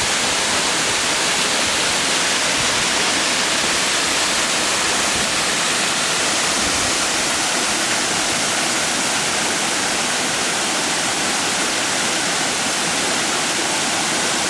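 Waterfall: water plunging and cascading over rock in a steady, loud rush.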